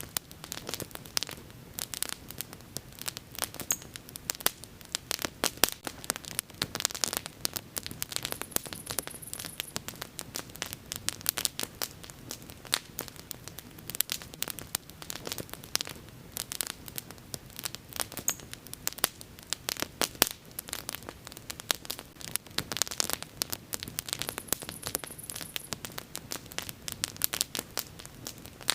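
Wood bonfire crackling steadily, with dense irregular sharp pops over a low even rush of flame. A brief faint high hiss comes twice, about 8 seconds in and again near 24 seconds.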